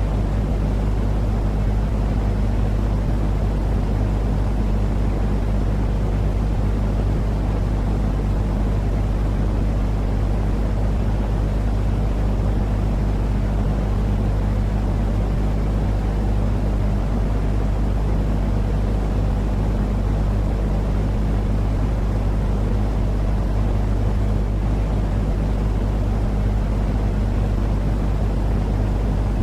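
Steady low rumbling noise with a constant low hum, unchanging throughout. It is a continuous soothing noise played as a sleep aid for babies.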